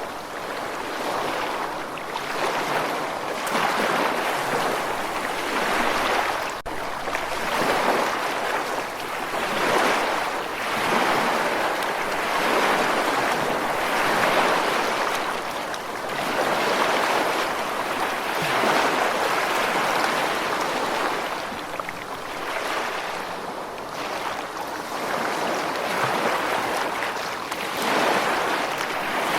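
Ocean surf washing in: a steady rushing hiss of breaking waves that swells and eases every two to three seconds.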